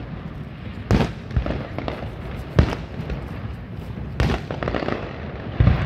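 Aerial firework shells bursting overhead: four loud booms about a second and a half apart, with smaller pops between them.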